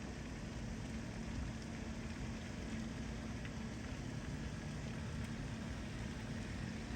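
Steady rain falling, an even hiss of drops, with a faint low steady hum underneath.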